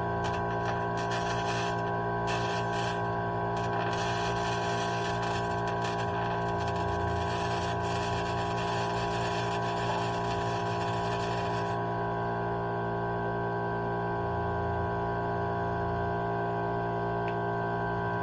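Electric arc welding on rusted steel: the arc crackles in two short starts, then burns steadily for about eight seconds before it stops abruptly. A steady electrical hum runs underneath.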